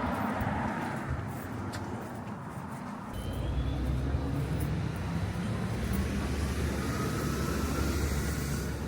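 Vehicle running: a low rumble comes in about three seconds in, with a faint whine rising slowly in pitch above it.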